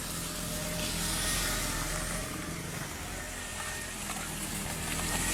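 Motorcycle engine running steadily at low revs under a hiss of rain, the hiss swelling about a second in.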